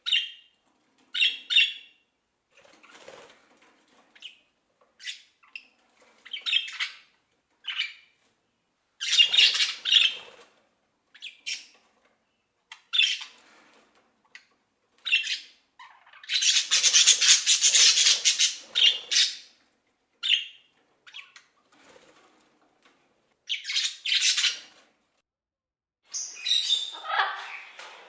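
Parrots squawking: a string of short, harsh calls in irregular bursts with silent gaps between them, and one longer, louder rasping call of about three seconds in the middle.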